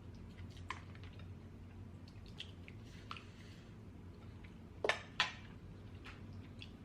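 Close-miked sounds of saucy king crab legs being handled and eaten: scattered soft clicks and wet squishes, with two sharp clicks close together about five seconds in.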